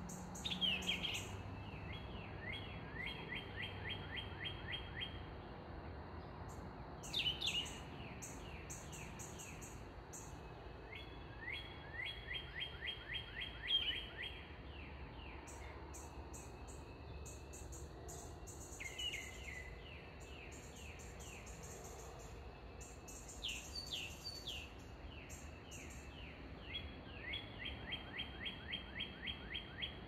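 A songbird singing the same phrase over and over: a high note sweeping down, then a fast run of quick slurred notes, each phrase two to three seconds long and repeated every few seconds.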